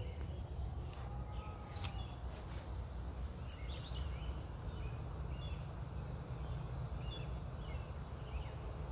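Small birds chirping outdoors, with short high calls scattered through and a livelier cluster about four seconds in, over a steady low background rumble; a single sharp click sounds just before two seconds in.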